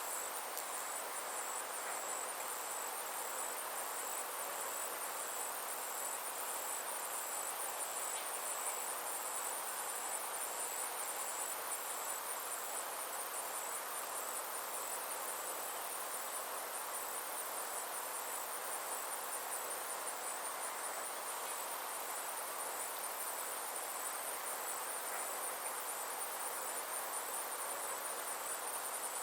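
Summer insects trilling in a steady, high-pitched pulsing chorus, over a soft, even background hiss.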